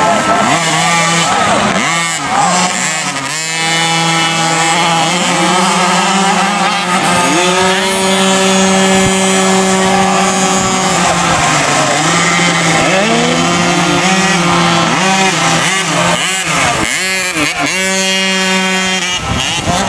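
Small 50cc two-stroke motocross bikes revving hard, their engine notes climbing, holding and dropping over and over as the riders work the throttle.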